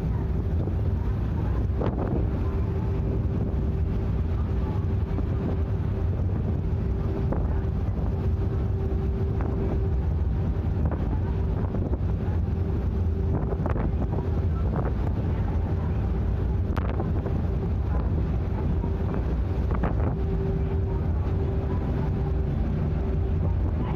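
Sightseeing icebreaker ship under way: a steady low engine rumble with a constant hum, and wind buffeting the microphone. Scattered short sharp cracks and knocks come through every few seconds.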